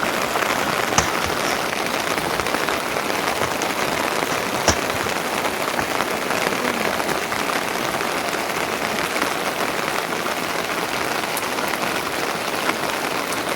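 Steady rain falling, with a few sharper drop hits.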